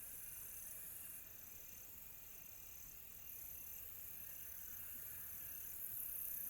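Night chorus of crickets: a high chirping trill that pulses on and off about once a second over a steady high hiss of more insects.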